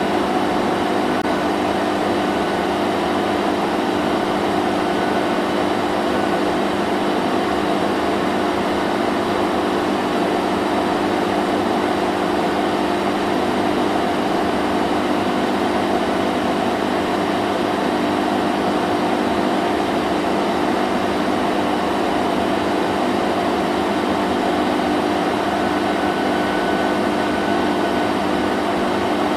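Vacuum cleaner running steadily: an even motor hum and rush of air with no change in pitch or level.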